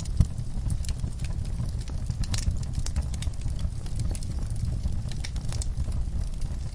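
Fireplace fire crackling, with irregular sharp pops over a steady low rumble of the flames; one louder pop comes just after the start.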